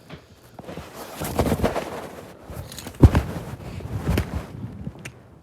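Irregular rustling and handling noise with a sharp knock about three seconds in.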